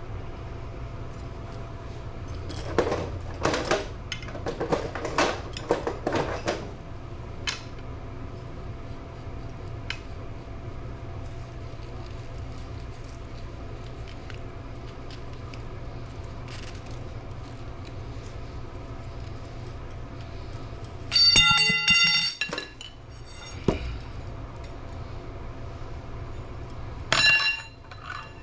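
Clattering and clinking as plumbing fittings and tools are handled, with a run of knocks a few seconds in and two short, ringing metallic clinks near the end, over a steady low hum.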